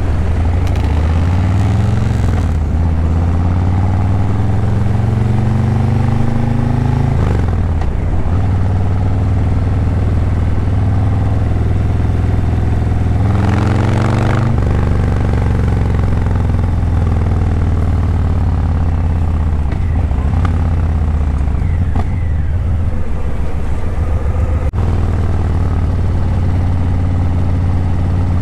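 Harley-Davidson Breakout 117's Milwaukee-Eight 117 V-twin running through Vance & Hines Eliminator 300 slip-on mufflers while riding. Its pitch climbs under throttle and falls back sharply several times.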